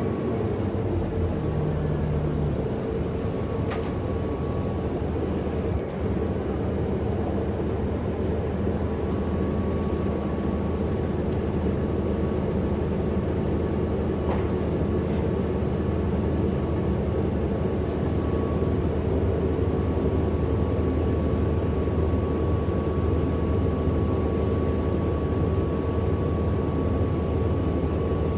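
Cabin ride noise of a 2008 Orion NG hybrid-electric city bus under way: a steady low drivetrain hum with a thin, steady high whine from the motor above it.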